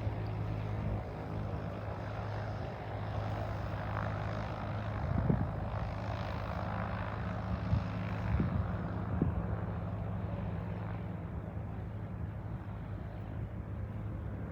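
Propeller aircraft engine running steadily, swelling around the middle and fading near the end, with a few short low thumps.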